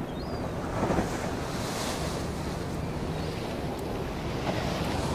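Wind buffeting the microphone over steady surf, with a couple of faint, short bird calls.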